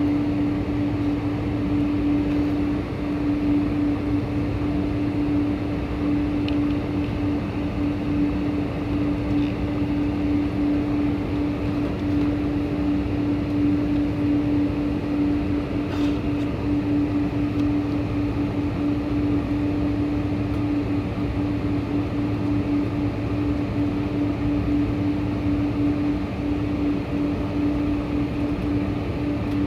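Steady drone of a Boeing 747-400 with four Pratt & Whitney PW4056 engines: an even rushing noise under one strong, unchanging hum.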